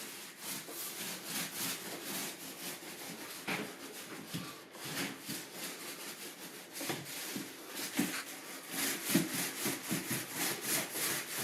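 Trowel scraping and spreading floor leveler across the floor in repeated rough strokes, coming a little faster near the end.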